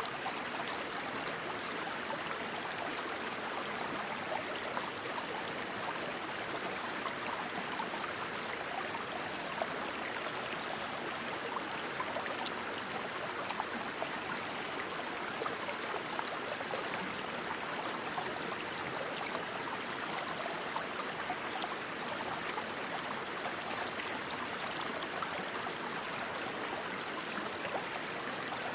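Steady rushing water of a fast stream, with scattered short high-pitched chirps over it and a quick trill about three seconds in and again near the end.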